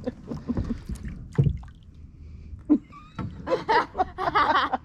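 Kayak paddle strokes splashing and dripping in the water, loudest in a cluster of splashes over the last second or so.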